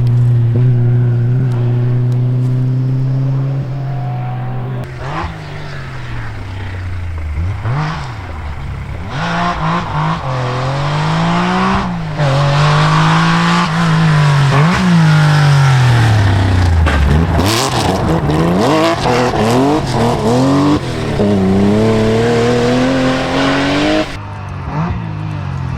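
Rally car engine at high revs, first held steady, then rising and falling over and over as the driver works the throttle and gears. The level drops near the end.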